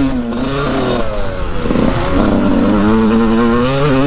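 Yamaha YZ125 125cc single-cylinder two-stroke motocross engine being ridden hard, its pitch rising and falling with the throttle. The note turns rough and broken for a moment about halfway through, then picks up again.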